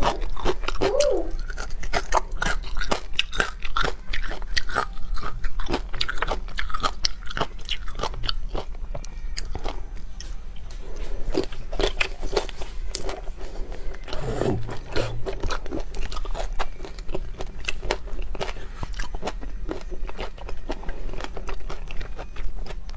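Close-miked eating: a whole shell-on shrimp being bitten and chewed, with dense crunching and wet mouth clicks throughout.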